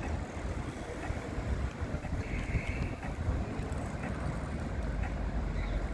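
Old ZET tram running along the street with a steady low rumble, with wind buffeting the microphone. A brief higher hiss comes about two and a half seconds in.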